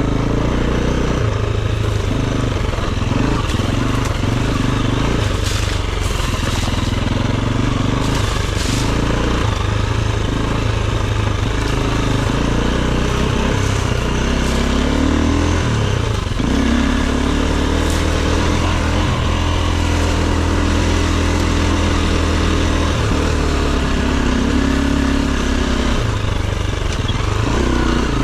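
Enduro dirt bike engine running under constantly changing throttle, its revs rising and dropping, with a steadier held stretch past the middle. A few sharp clicks come about a quarter of the way in.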